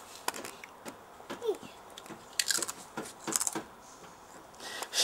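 A child biting and chewing crunchy food: scattered crackly crunches, with two denser bursts in the second half.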